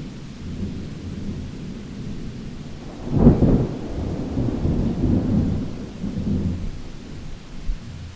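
Thunder over rain: a low rumble builds, then a sharper clap comes about three seconds in and rolls on as rumbling that fades toward the end.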